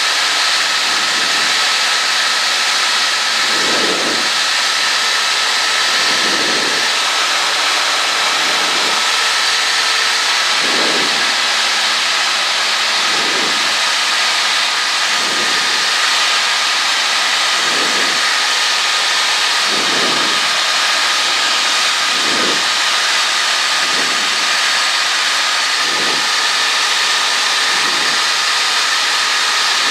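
Cessna 152's Lycoming four-cylinder engine and propeller running steadily in cruise, heard from inside the cabin as a steady drone and hiss, with a slow low swell about every two seconds.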